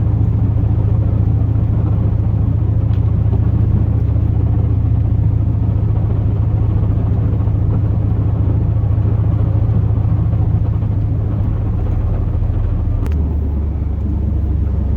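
Steady drone of a 2002 Chevrolet Silverado's 8.1-litre big-block V8 and road noise, heard inside the cab. About thirteen seconds in, the low hum drops in pitch.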